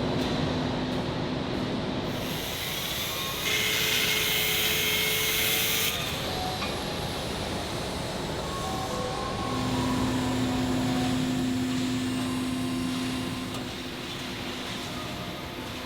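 Industrial machinery in a precast concrete plant running with a steady hum, and a loud hissing noise from about two and a half to six seconds in.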